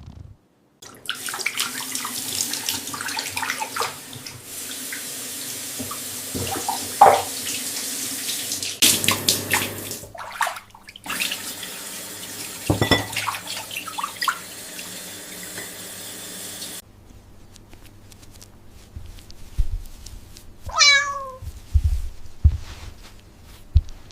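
Water running steadily, as from a tap into a sink, which cuts off suddenly about two-thirds of the way through. Near the end a cat meows once, its pitch falling.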